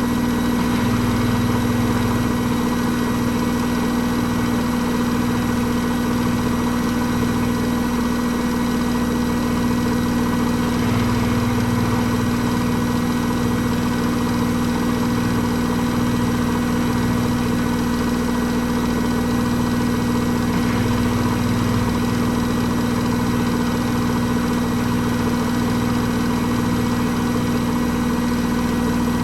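Hoover H-Wash 300 Plus washing machine running a spin at a steady speed: an even motor hum and whine, with a low throbbing rumble from the drum that swells and fades every second or two.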